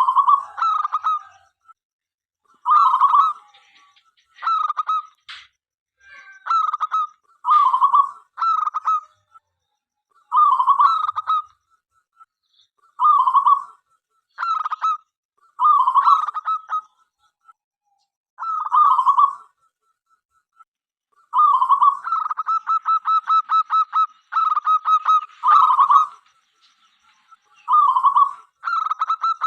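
Zebra dove cooing in repeated short phrases, each about a second long with pauses between. About two-thirds of the way in, the calls turn into a faster run of short staccato notes, several a second.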